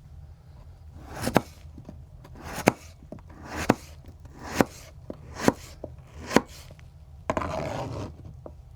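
Knife chopping on a wooden cutting board: six separate cuts, about one a second, each ending in a sharp knock on the board. Near the end comes a scrape of about a second, like the cut pieces being swept across the board.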